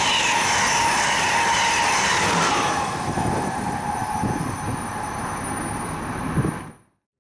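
Train running past on the rails, with a high squeal from the wheels that fades about three seconds in, leaving a steady rolling rumble. The sound cuts off abruptly near the end.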